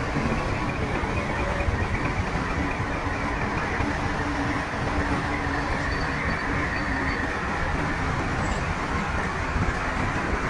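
Shantui crawler bulldozer running steadily at work: a diesel engine with the rumble and clatter of a tracked machine.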